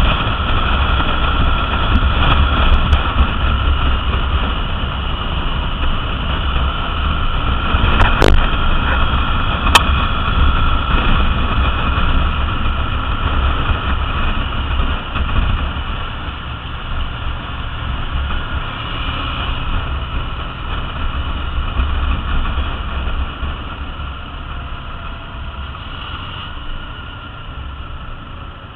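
Triumph Bonneville T100's parallel-twin engine running while the bike is ridden, mixed with wind rush. Two sharp clicks come about eight and ten seconds in, and the sound grows gradually quieter over the second half.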